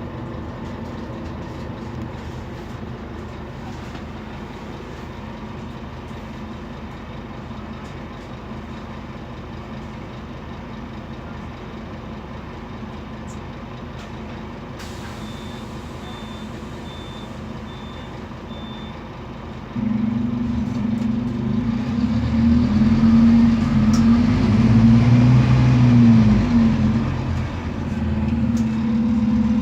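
Scania DC9 five-cylinder diesel of a city bus idling steadily, with a run of about five short high beeps. About twenty seconds in the engine gets much louder as the bus pulls away, its pitch rising and dipping several times as the ZF automatic gearbox shifts up.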